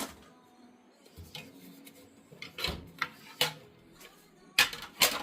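Kitchen clatter from dishes being unloaded from a dishwasher and put away: a string of short knocks and clinks about every half second to a second, the loudest two close together near the end.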